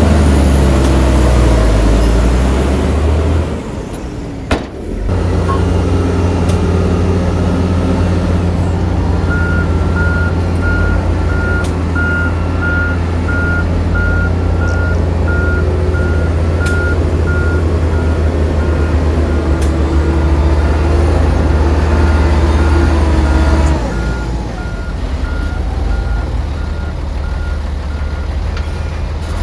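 Heavy diesel earthmoving machinery running with a steady low drone. About a third of the way in, a reverse alarm starts beeping in an even, repeating pattern and keeps going. The engine eases off near the end.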